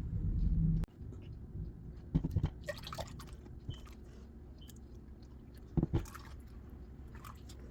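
Milk being poured into a mixing bowl of cake batter, with a few short knocks of the cup or utensils against the bowl.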